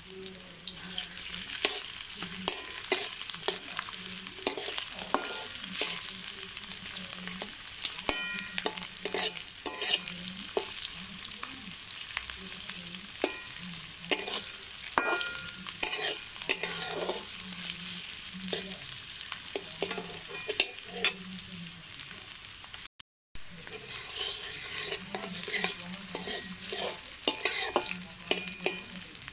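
Onions sizzling in hot oil in an aluminium kadai, stirred with a wooden spatula that scrapes and knocks against the metal pan over and over. The sound drops out for a moment about two thirds of the way through.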